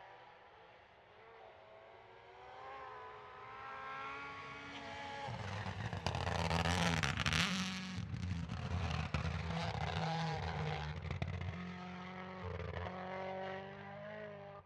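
Rally car approaching flat out on a stage, its engine note climbing in steps through the gears and growing louder. It passes close about six to eight seconds in, the loudest moment, then pulls away with further gear changes until the sound cuts off abruptly.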